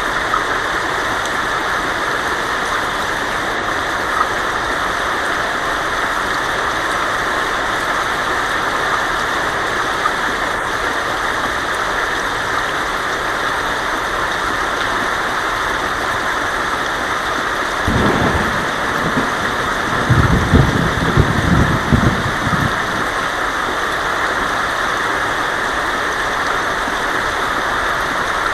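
Heavy rain falling steadily on a tin roof, with a low rumble of thunder that starts about two-thirds of the way in and rolls for about four seconds, loudest near its end.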